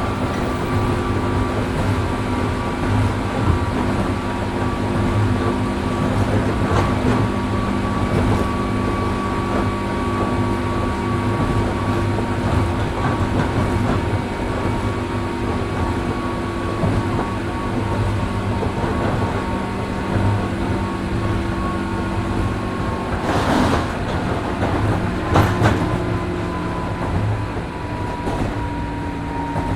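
Electric train (JR 103 series 1500 subseries EMU) running at speed, heard from on board: a steady rumble of wheels on rail with a whine from the traction motors and gears. Two short, sharp noises come about 23 and 25 seconds in, and near the end the whine slowly drops in pitch.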